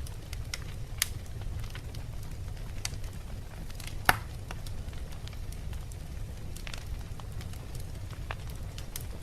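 Wood fire burning in a fireplace: a steady low rumble of flames with scattered sharp crackles and pops from the logs, the loudest pop about four seconds in.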